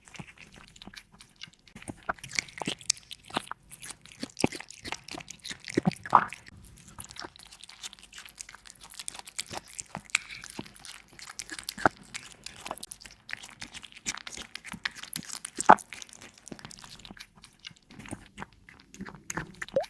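Cat crunching and chewing crispy meat strips, close-miked: a run of irregular crisp crunches and clicks, with a couple of louder bites about six seconds in and again near sixteen seconds.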